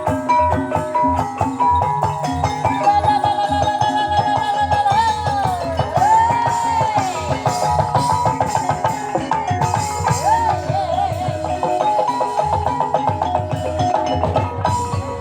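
Banyumasan gamelan music accompanying an ebeg dance: mallet-struck instruments playing a quick repeating pattern over drum strokes, with a high, wavering melody gliding above.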